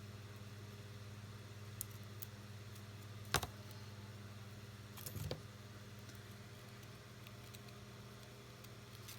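Small handling noises of craft supplies on a desk: a few faint ticks, one sharp click a little over three seconds in and a short rattle about two seconds later, over a steady low electrical hum.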